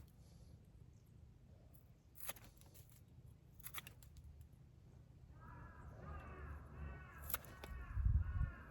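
A few sharp clicks, then from about five seconds in a rapid run of short, repeated calls like a bird's, with a low rumble swelling near the end.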